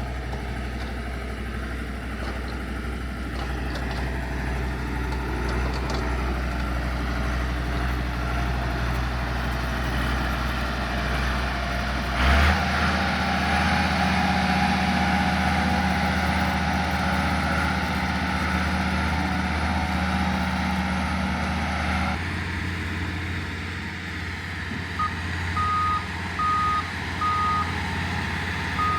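Heavy earthmoving machine's engine running steadily, its note shifting about 12 seconds in and again about 22 seconds in. Near the end a reversing alarm beeps at a steady pace, about one beep every 0.7 seconds.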